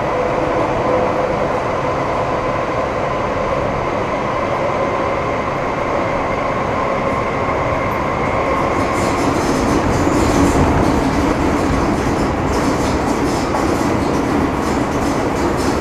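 Metro Cammell M-Train electric multiple unit running underground, heard from inside the car: steady running noise with the whine of its GEC GTO chopper traction control at first. The whine fades about halfway through, and rapid wheel-and-rail clatter comes in.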